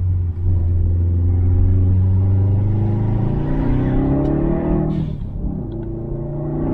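Turbocharged EJ257 2.5-litre boxer four of a tuned Subaru WRX STI with a muffler-deleted exhaust, heard from the cabin, pulling hard with the revs rising. About five seconds in the revs break off briefly with a few clicks and a short hiss, then climb again.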